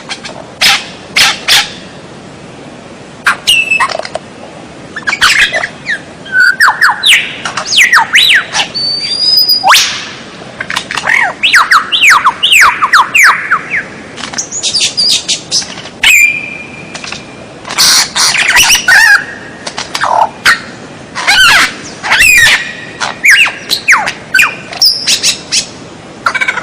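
A songbird singing a loud, varied song: sharp single notes, clear whistles and quick runs of down-slurred notes, in short phrases separated by brief pauses.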